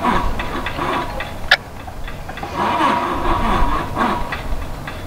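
Railroad grade-crossing bells ringing in a steady run of rapid strokes, activated by a malfunctioning crossing gate that won't stay in the up position. A single sharp click sounds about a second and a half in.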